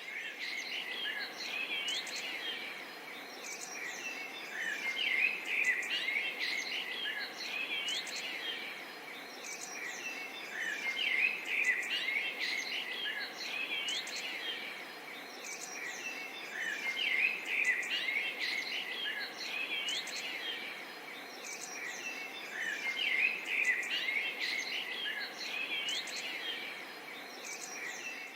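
Forest and swamp ambience: many birds chirping and calling in a dense, overlapping chorus with insects, over a steady background hiss. The chorus swells louder about every six seconds.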